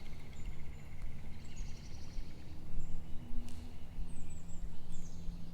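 Songbirds chirping, several short high falling notes, over a steady low background rumble.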